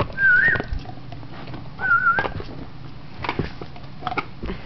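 A person whistles twice to call a dog, two short warbling whistles about a second and a half apart, with scattered clicks and knocks of handling.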